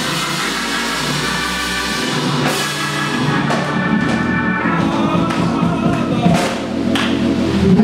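Live church band music: held chords over a drum kit, with a few sharp crashes in the second half.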